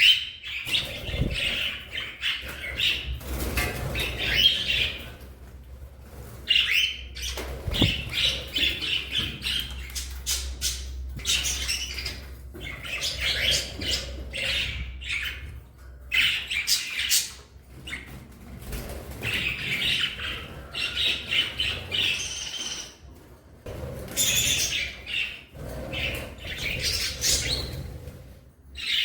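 Budgies chirping and chattering in quick bursts of high warbles and squawks, with wing flaps from birds in flight.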